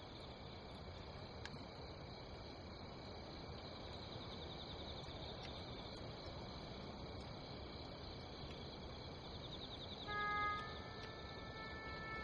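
Night ambience of crickets chirping in short rapid trills every few seconds over a steady low hiss. Sustained music notes come in near the end.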